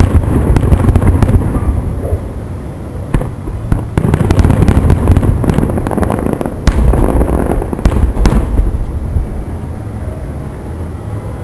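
Fireworks display: a dense barrage of aerial shells bursting and crackling, with sharp single bangs standing out about three, seven and eight seconds in. The barrage thins out near the end.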